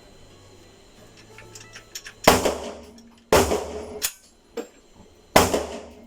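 Three gunshots from a firearm at a shooting range: the second comes about a second after the first, the third about two seconds later. Each shot rings on in the room's echo, with smaller clicks in between.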